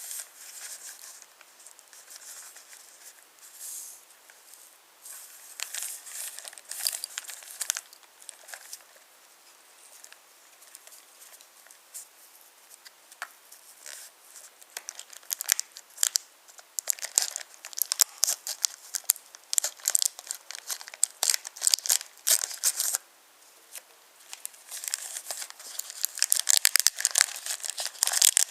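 Wooden toy trains and wooden track clicking and rattling as they are handled and rolled. The clatter is scattered at first, then grows denser and louder about halfway through, with a short pause near the end.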